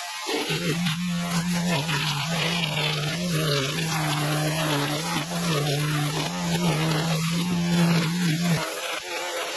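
A vehicle engine running steadily with a low drone, stopping suddenly near the end.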